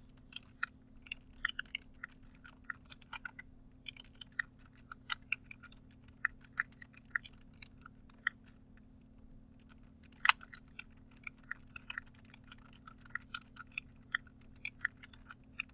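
Typing on a computer keyboard: quick, irregular runs of key clicks with short pauses between words, and one louder key strike about ten seconds in. A faint steady hum lies underneath.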